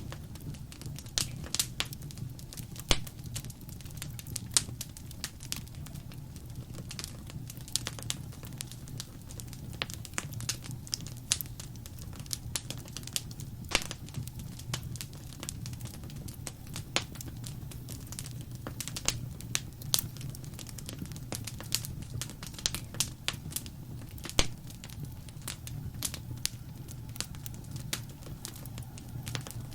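Fireplace fire burning: a steady low rumble of flames with frequent irregular sharp crackles and pops of burning wood.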